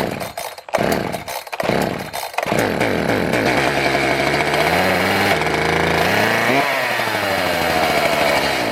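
Echo CS-590 Timberwolf two-stroke chainsaw sputtering as it is cranked, then catching about two and a half seconds in. It runs with its engine speed wandering up and down unevenly. It is running poorly from a fuel problem that the owner puts down to a bad carburetor.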